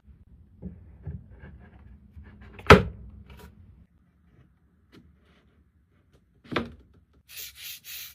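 Scattered knocks and clatter with two sharp knocks, the first the loudest, about three and six and a half seconds in. Near the end come four short bursts of hissing.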